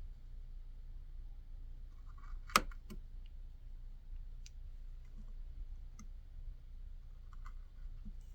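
A carving tool cutting into white birch wood, making sparse small clicks and short scrapes, with one sharp, louder click about two and a half seconds in. A low steady hum runs underneath.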